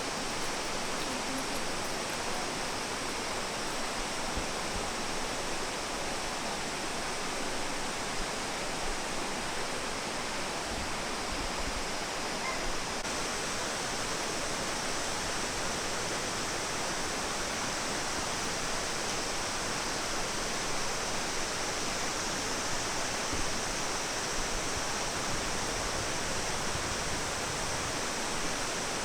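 Steady rushing of falling and flowing water, an even hiss with no breaks.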